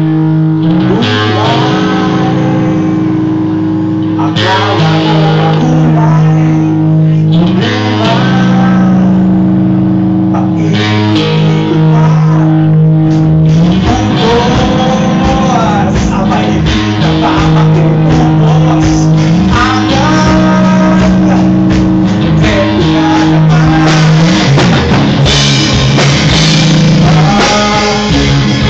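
A rock band playing: guitar over held bass notes that change every few seconds, with a bending melody line above.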